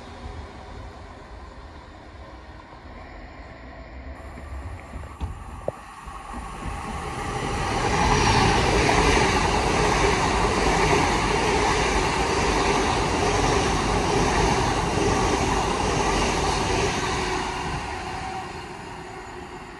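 LNER Azuma high-speed train passing close by at speed, a rushing roar of wheels and running gear. It swells to its loudest about eight seconds in, holds, then fades near the end.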